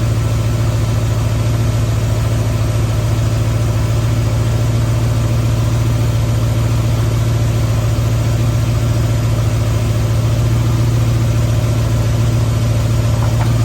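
Ford 351 Windsor V8 idling steadily, with a freshly broken-in camshaft and new inner valve springs.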